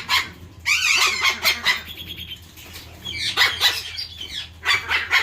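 Parrots squawking in three harsh bursts, most likely the pair of Amazon parrots being handled.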